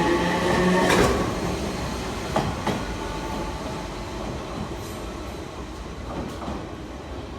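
Enshu Railway MoHa 30 electric train pulling away. Its traction motor whine rises for about the first second, then cuts off, leaving wheel rolling noise and a few rail-joint clacks that fade as the train moves off.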